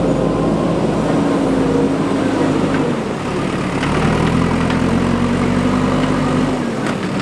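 Diesel engine of a JCB 3DX backhoe loader working under load; the engine speed holds, drops off about three seconds in, picks up again a second later and falls away once more near the end.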